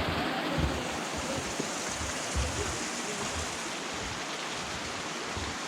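Rushing creek water, a steady even noise with a few brief low bumps underneath.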